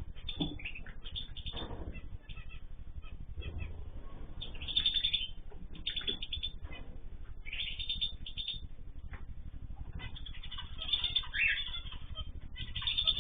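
A mixed flock of small cage birds chirping and calling in rapid, overlapping bursts, busiest near the middle and toward the end, over a steady low hum.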